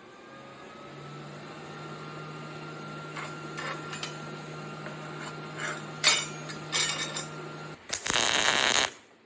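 A steady low hum with scattered metal clicks and taps, then about a second of loud welding-arc crackle as a wing is tack-welded onto the spoon-and-fork duck.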